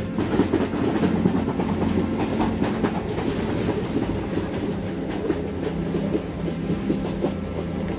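Train running along the track, with the wheels clicking and rattling over the rails above a steady low drone.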